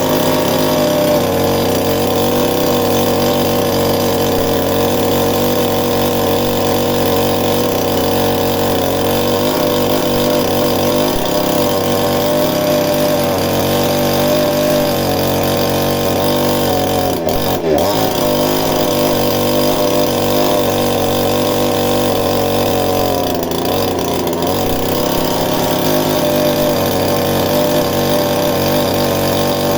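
Chainsaw running hard while cutting into a wooden stump; its pitch sags briefly under load about two-thirds of the way through, and again a little later.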